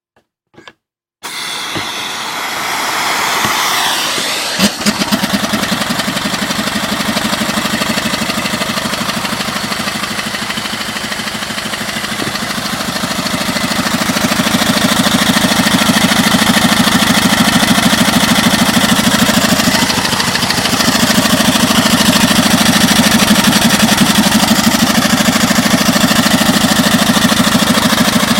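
Steam rushing as the boiler valve is knocked open, then a 5 hp single-cylinder Briggs & Stratton engine converted to run on steam starts up about five seconds in. It runs with a fast, even beat that gets louder around fourteen seconds in.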